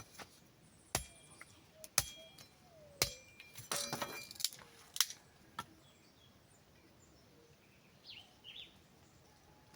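Sharp wooden clicks and knocks of sticks being handled and fitted into a stick-built bird trap, about one a second for the first six seconds, each with a brief ringing tone.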